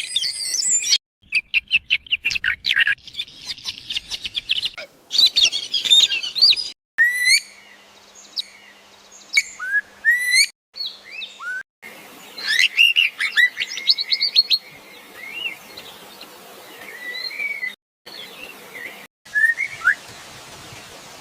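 Small birds chirping and calling, with a rapid trill and repeated sharp rising whistled notes. The sound breaks off abruptly several times.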